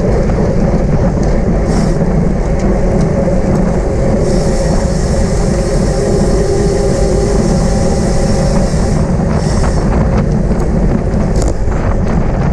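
Steady wind rush on the microphone and tyre and road noise from a racing bicycle moving at speed. A thin higher hiss joins from about four to nine seconds in.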